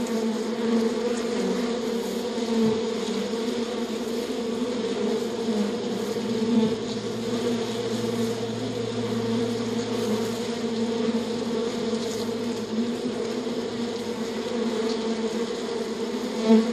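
Honeybees buzzing in a steady, dense hum of many wings. A deeper buzz joins for several seconds in the middle.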